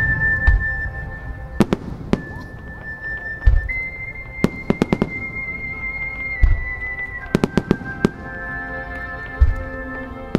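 Aerial firework shells bursting in a starmine display: a deep boom about every three seconds, with clusters of sharp cracks in between. Music with long held tones plays throughout.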